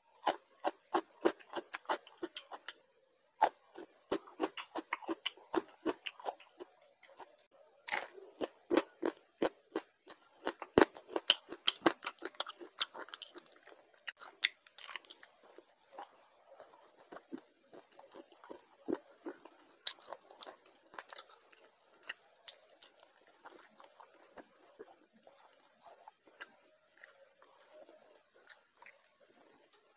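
A person chewing and crunching mouthfuls of fried fish and rice, with many sharp, wet mouth clicks and smacks. The clicks are thickest in the first half and thin out later.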